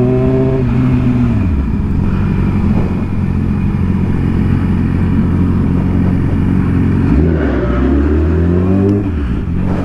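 Sport motorcycle engine: the revs fall away about a second in, it runs low and steady for several seconds, then the revs rise from about seven seconds in and drop back near the end.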